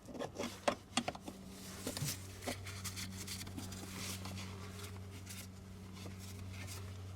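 Light clicks and knocks of the battery hold-down hardware being handled and tightened by hand during the first couple of seconds, then a steady low hum from about two seconds in.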